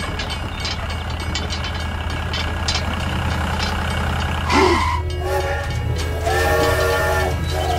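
Toy steam locomotive's electronic whistle sounding in repeated long blasts from about five seconds in, over a steady low hum.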